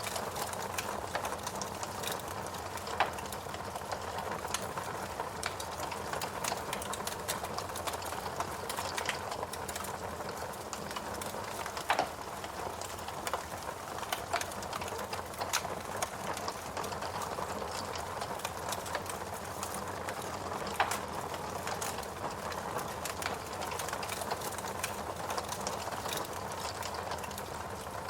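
Wood fire burning in a fireplace, crackling steadily with many small snaps and a few louder pops.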